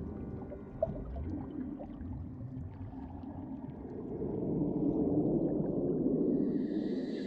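Muffled rushing, gurgling water, swelling louder from about four and a half seconds in.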